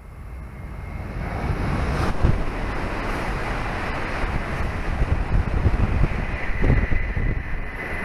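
Hokuriku Shinkansen Kagayaki train passing through a station at about 260 km/h without stopping: a rush of noise that swells over the first two seconds and then stays loud, with the train's wind blast buffeting the microphone.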